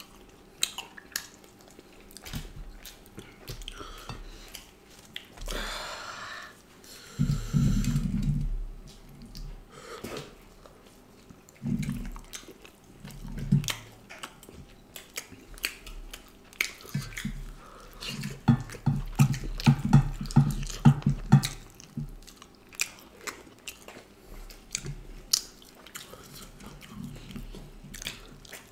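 Close-miked eating of duck curry and rice-flour flatbread by hand: wet chewing, lip smacks and mouth clicks, with louder stretches of chewing twice.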